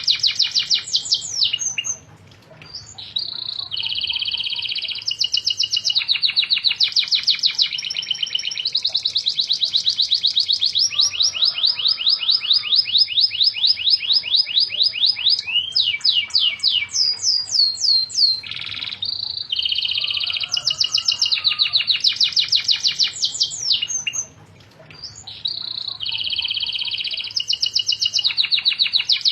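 Domestic canary in full song: long, unbroken runs of fast, high trills and rolling phrases, with two brief pauses.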